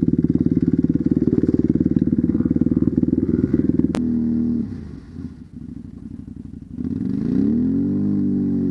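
Enduro dirt bike engine running hard, then dropping to a low idle after a sharp click about four seconds in. It revs back up near the end and holds steady.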